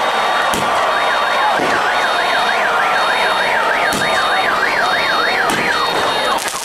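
An electronic siren warbling rapidly up and down, about two and a half sweeps a second, over a steady background din.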